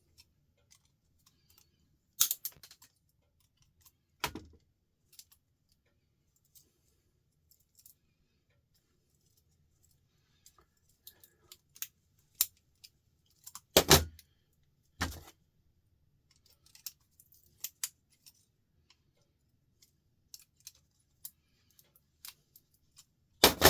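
Metal and plastic parts of a light fixture and hand tools clinking and clattering during dismantling, with scattered light clicks and a few louder knocks, the loudest about 14 seconds in and again near the end.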